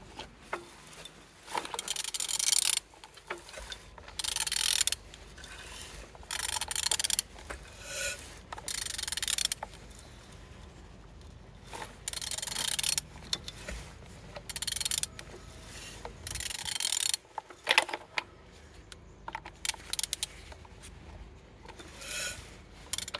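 A removed car engine being turned over by hand: about nine rasping, rubbing strokes roughly two seconds apart as the crankshaft is rotated a little at a time.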